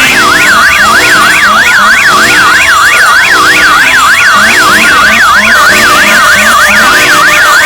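Loud electronic siren-like wail, sweeping rapidly up and down about four times a second without a break, layered over fainter repeating lower tones.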